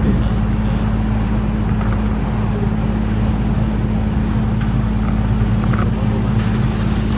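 Canal tour boat's motor running steadily at cruising speed, a low, even hum under a haze of water and wind noise.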